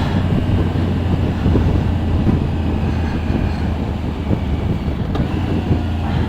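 Motorcycle on the move: a steady low engine note under wind and road noise.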